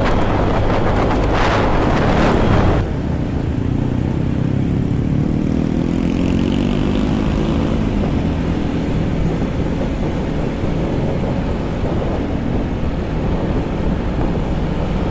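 Motorcycle engine running under way, a steady low drone whose pitch drifts slowly. Wind buffets the microphone heavily for the first few seconds, then drops away suddenly.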